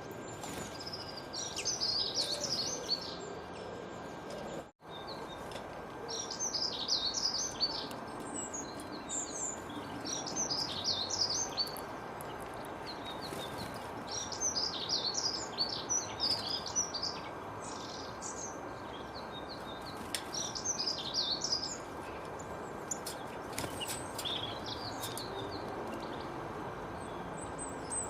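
Songbirds singing in quick twittering phrases of high chirps that repeat every few seconds over a steady background hiss. The sound cuts out for an instant about five seconds in.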